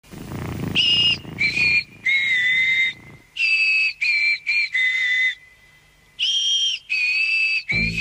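A clear whistle playing a short tune of held notes that step up and down in pitch, with a pause of about a second shortly after the middle. A low rumble runs under the first second or so.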